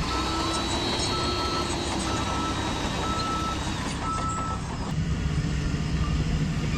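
Reversing alarm of a radio-controlled construction vehicle beeping about once a second, with five single-tone beeps that stop about four and a half seconds in, over a steady low engine-like rumble.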